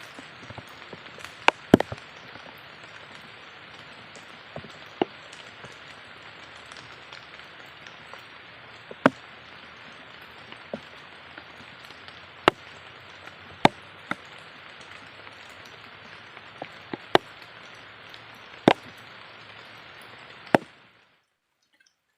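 Steady rain hiss with scattered sharp taps of drops or knocks close by. It stops abruptly near the end.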